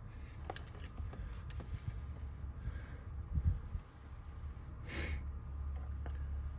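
Faint clicks and taps of small metal lock parts being handled while a Honda door lock cylinder is recoded, over a low hum, with a dull thump about three and a half seconds in and a short nasal exhale about five seconds in.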